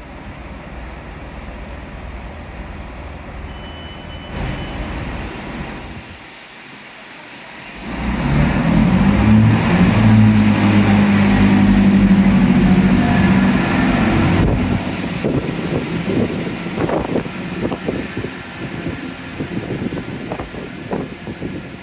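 A large diesel engine runs loudly close by for about six seconds, starting about eight seconds in, over wind and drizzle noise. After it fades, wind gusts buffet the microphone in irregular thumps.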